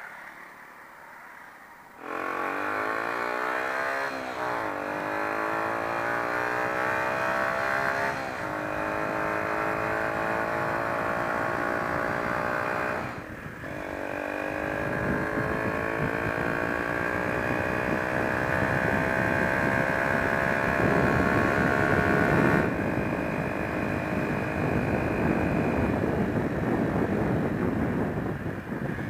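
Honda XR125's single-cylinder four-stroke engine starting to pull away about two seconds in and accelerating up through the gears. Its pitch climbs, then drops at each shift, with a brief dip about thirteen seconds in. Wind and road rush grow underneath as speed builds.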